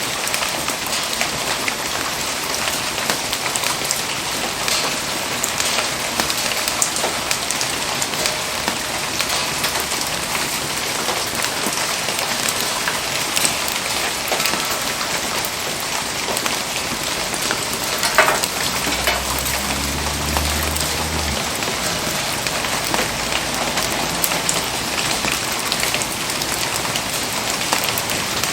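Steady rain falling and pattering, a dense even hiss of countless small drop ticks. About two-thirds through comes one sharper crack, followed by a brief low rumble lasting a couple of seconds.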